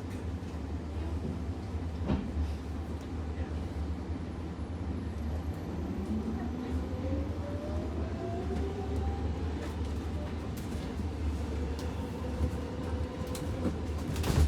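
Ford Blue Bird G5 electric bus's drive motor whining, two tones rising steadily in pitch for several seconds as the bus accelerates, then holding level, over a steady low road rumble in the cabin.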